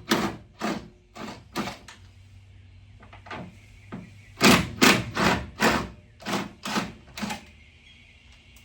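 Ratchet wrench being worked back and forth on 10mm bolts, a run of short rasping strokes about three a second, a pause, then a second run of about eight strokes.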